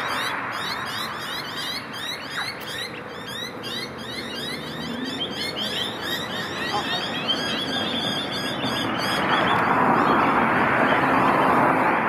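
Birds chirping: a quick run of short rising chirps, repeated several times a second, over a steady rushing background noise that grows louder near the end.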